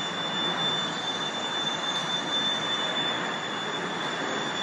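Tornado-force wind blowing steadily, a dense rushing noise without let-up as heard on a mobile phone's microphone, with a thin steady high whine above it.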